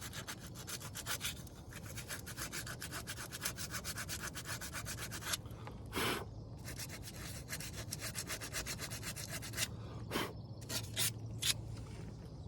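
Sandpaper rubbed by hand on a part in quick back-and-forth strokes, pausing briefly about halfway and stopping and starting a few times near the end.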